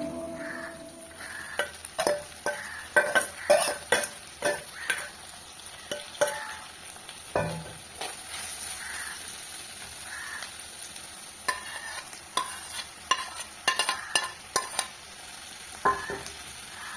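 Food sizzling in a pan while a spoon stirs it, clinking and scraping against the pan at irregular intervals.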